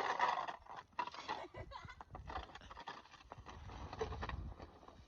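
Snow shovel scraping through snow at the start, then irregular crunching thuds and knocks of shoveling and steps in snow, with a low rumble of wind on the microphone.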